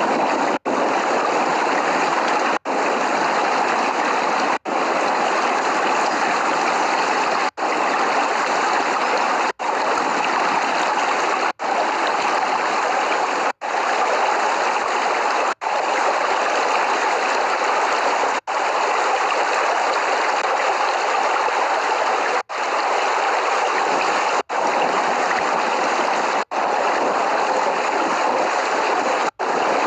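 Steady rain, an even rushing hiss with no thunder, cut by brief dropouts every two to four seconds where the sound vanishes for an instant.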